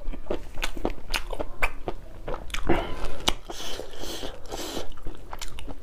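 Close-miked chewing of a mouthful of food, with many wet crunches and sharp mouth clicks at an uneven pace. A brief hiss comes about halfway through.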